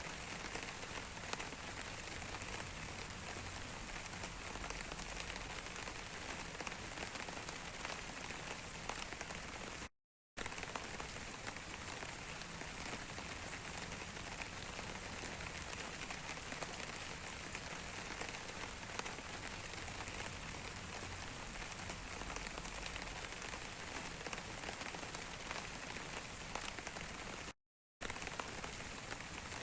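Steady rain falling, a dense, even patter of many small drops. It cuts out to silence for a moment twice, about a third of the way in and near the end.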